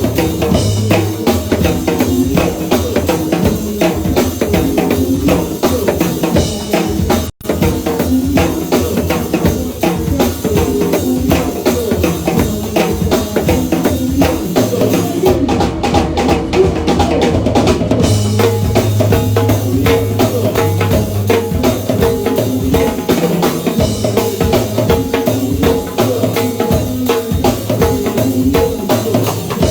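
Live band music with a drum kit keeping a steady beat under bass and other instruments. The sound cuts out for an instant about seven seconds in.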